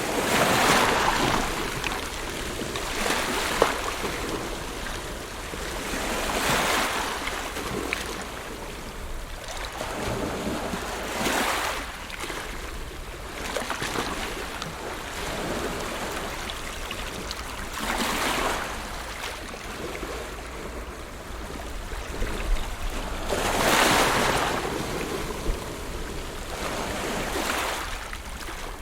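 Ocean surf: waves breaking one after another every few seconds, each a rising and falling wash of foam over a steady low rumble.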